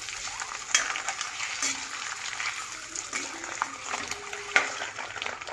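Boiled eggs frying in oil with chilli and turmeric powder in a kadai, a steady sizzle, with a steel ladle stirring them and knocking against the pan several times.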